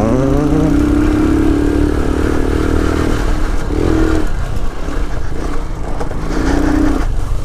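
Lifan KP motorcycle's single-cylinder engine running under throttle on a dirt-track lap. Its pitch climbs over the first second or two, holds, then falls off, with two short rises about four seconds in and near the end.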